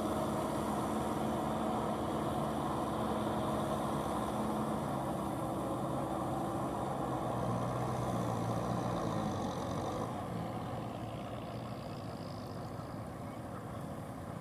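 Kubota M6040SU tractor's diesel engine running steadily under load while it tills a wet paddy field, its pitch shifting a little and the sound growing fainter after about ten seconds.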